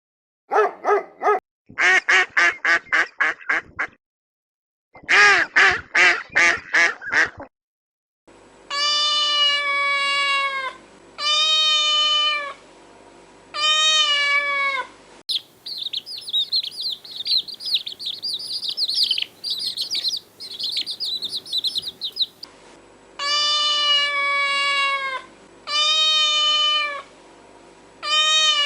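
A sequence of farm animal calls: two fast runs of duck quacks, then repeated drawn-out meows about a second each, broken by a stretch of high chirping in the middle.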